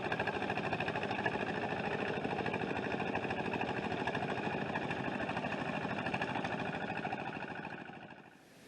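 A motor engine running steadily with a fast, even pulsing beat, fading out near the end.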